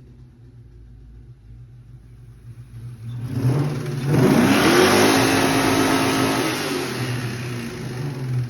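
Ford Mustang engine idling, then revved once about three seconds in: the pitch climbs, holds high for a couple of seconds and falls back to idle. The engine has a knocking connecting rod.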